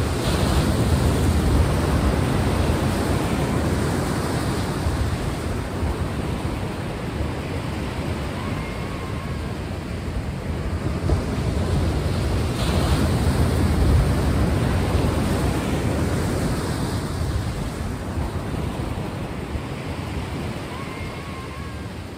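Sea waves washing in slow surges of rushing noise, swelling to a peak about a second in and again around thirteen seconds in, then easing off.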